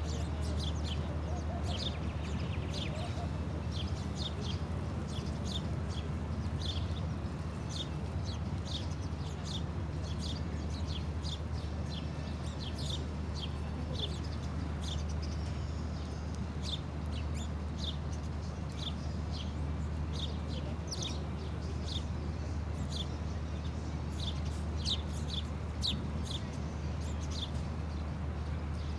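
Birds chirping: a steady stream of short, high chirps, several a second, over a steady low hum.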